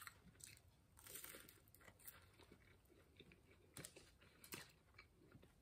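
Faint crunching and chewing of a bitten fried spring roll, with a few soft, irregular crunches.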